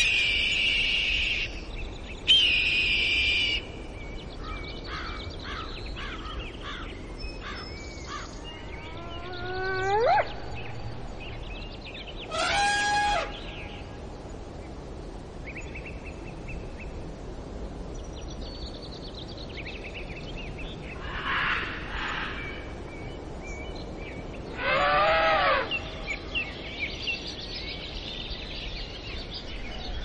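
Assorted wild bird calls over a steady outdoor ambience: chirps, whistles and a rising call, with louder calls rich in overtones about 13 and 25 seconds in.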